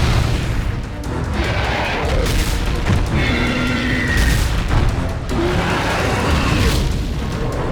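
Animated battle soundtrack: loud action music with several heavy booming impacts.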